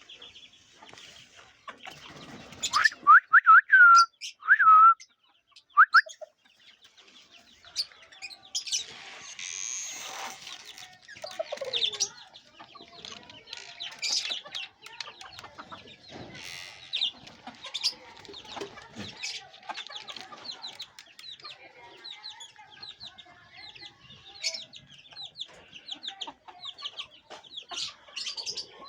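Aseel chickens and chicks calling: a run of loud, short, hooked calls a few seconds in, then steady clucking and many short high chirps.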